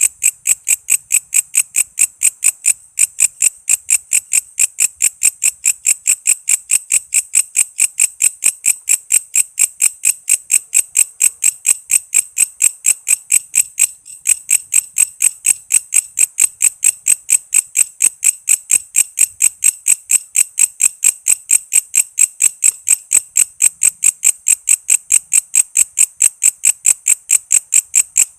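Walang kece bush cricket calling with a loud, even train of high, rasping pulses, about five a second. The rhythm breaks off briefly twice, about three seconds in and about halfway through.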